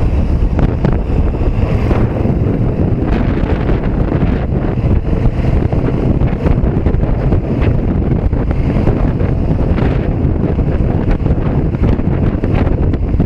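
Steady wind rush buffeting the microphone on a KTM 1290 Super Duke R Evo at riding speed, with the bike's V-twin engine running underneath.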